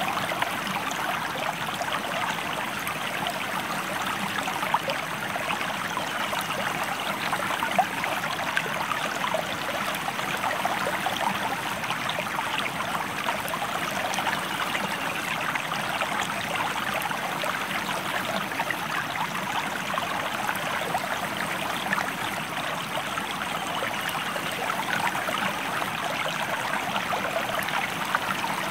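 Stream water flowing over rocks, a steady, dense babbling and splashing that holds an even level throughout.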